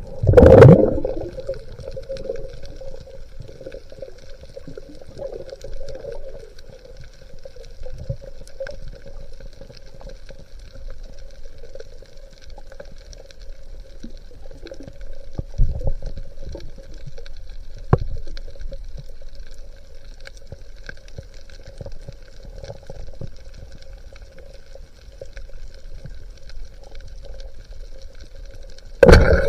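Water sounds through an underwater camera: bubbling and gushing over a faint steady hum, with a loud rush of water just after the start and again at the very end, and a few light knocks in between.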